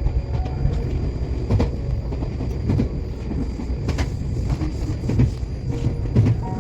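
Iyotetsu electric train running, a steady low rumble with wheel clicks over rail joints about every second.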